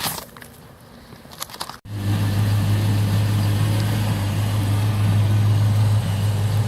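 A couple of brief crunching noises, then an abrupt cut about two seconds in to a Ford 5.0 (302) V8 running steadily with a loud, even low hum.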